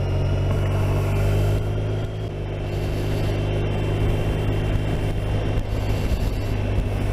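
BMW R 1250 RT's boxer-twin engine running as the motorcycle pulls away and rides on. Its note drops briefly about two seconds in, and wind and road noise rise after that.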